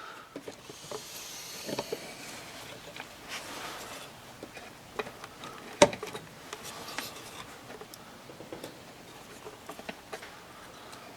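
Small metal engine parts being handled and fitted by hand: scattered light clicks and scrapes, with one sharper click about six seconds in.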